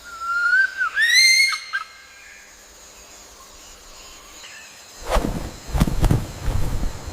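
A bird's loud whistled call that bends and rises in pitch, lasting about a second and a half. From about five seconds in, gusts of low, rushing noise follow, as loud as the call.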